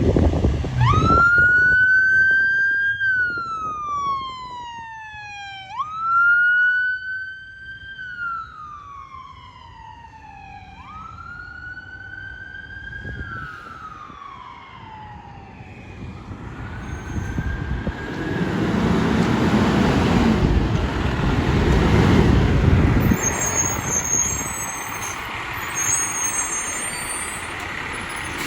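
Emergency vehicle siren on a wail, sweeping up and slowly down three times, about five seconds per cycle, then fading out. It is followed by vehicle engine and road noise that swells and then eases off.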